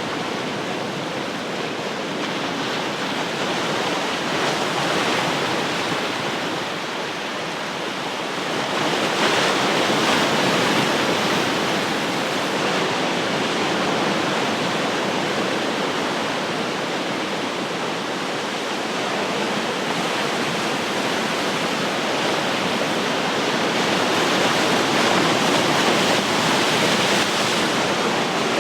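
Ocean surf: waves breaking and washing up the shore in a continuous rush, swelling louder about nine seconds in and again near the end.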